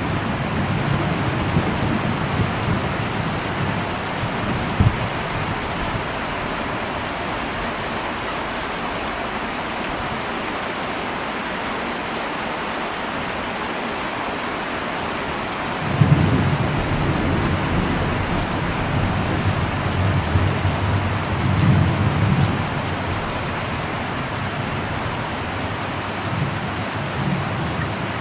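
Heavy rain beating steadily on an old metal roof, with low rolls of thunder: one dying away in the first few seconds, and another breaking in suddenly a little past halfway and rumbling on for several seconds.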